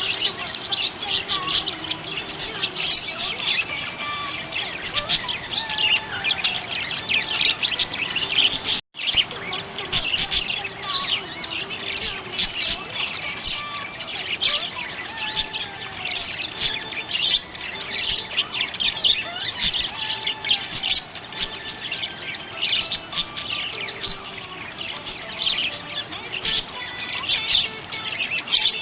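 Small pet parrots chirping and warbling without pause, many short calls overlapping in a dense chatter. The sound cuts out for a split second about nine seconds in.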